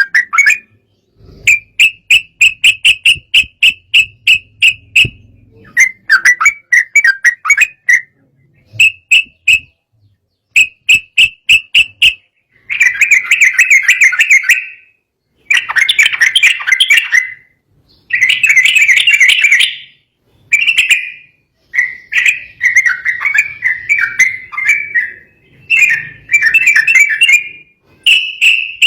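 Yellow-vented bulbul singing an agitated, fired-up song: phrase after phrase of quick, bubbling whistled notes, each phrase one to three seconds long with short pauses between.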